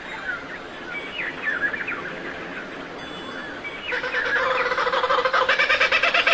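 Several birds chirping and singing in short notes that glide up and down. About four seconds in, a louder call with several stacked pitches begins, pulsing rapidly and growing louder.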